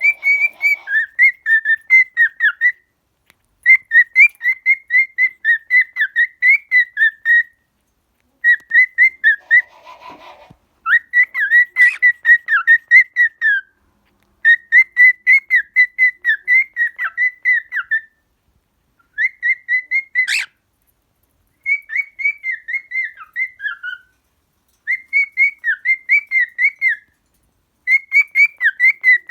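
Cockatiel whistling a quick, warbling tune in runs of a few seconds with short pauses between. There is a sharp click about twenty seconds in.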